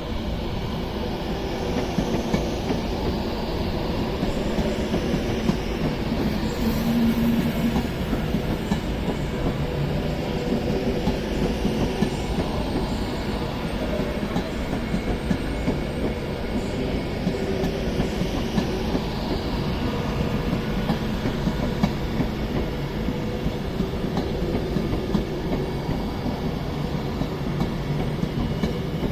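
A train running on the line, with steady wheel-on-rail noise and clickety-clack from the wheels over the track.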